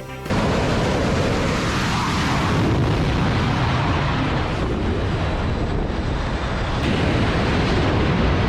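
Loud, steady roar of jet aircraft engines, which comes in suddenly about a third of a second in as the music cuts off.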